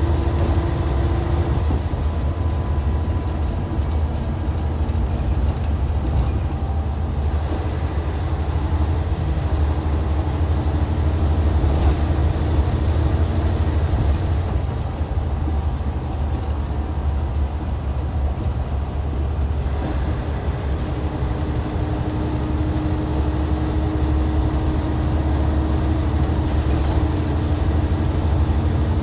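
Hyundai D6CC Powertec 380 inline-six diesel engine of a 2014 Hyundai Universe Comfort coach running: a steady deep drone whose pitch shifts slightly now and then.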